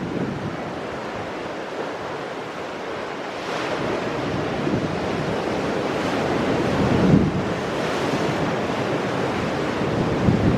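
Ocean surf breaking on rocks: a steady wash of water that builds about a third of the way in and swells loudest a little past the middle, with another surge near the end. Wind buffets the microphone throughout.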